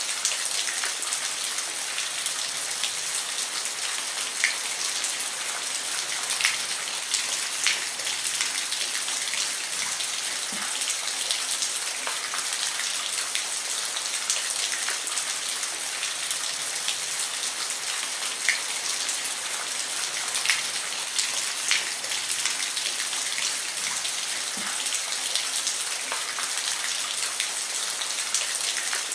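Steady rain falling on a roof: an even hiss with scattered sharper drop hits.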